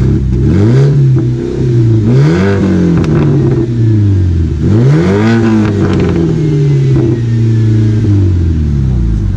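BMW 1 Series E88's four-cylinder N43 petrol engine, on a custom exhaust, revved three times from idle. Each blip climbs higher than the last, and after the third and highest it falls back to a steady idle.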